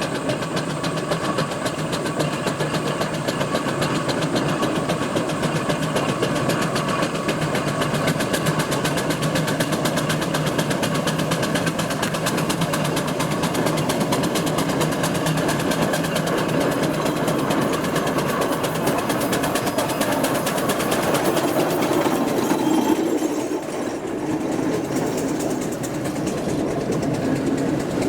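Steam traction engine working along the road: a steady mechanical clatter of the running gear with a rapid, even beat. The tone changes briefly about two-thirds of the way through.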